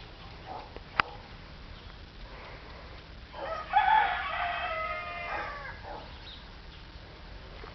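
A rooster crowing once, a single long call lasting about two and a half seconds, starting a little over three seconds in. A sharp click comes about a second in.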